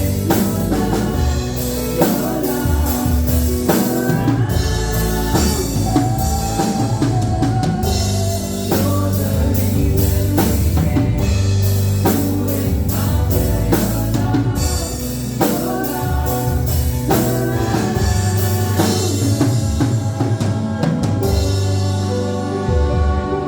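Live gospel worship music: a band with drum kit, bass and keyboard playing, with singing.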